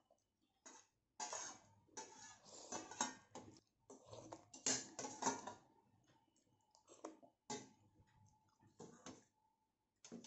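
Close-miked eating sounds: irregular wet clicks and smacks of chewing, in dense clusters broken by short pauses, with a few single clicks near the end.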